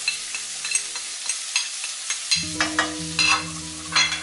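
Chopped onion and garlic frying in olive oil and butter in a nonstick wok. A steady sizzle with frequent sharp crackles, loudest near the end.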